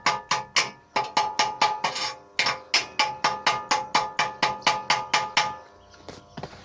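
Metal struck in rapid, even blows, about four a second, each ringing with a clear metallic tone; the blows stop about five and a half seconds in.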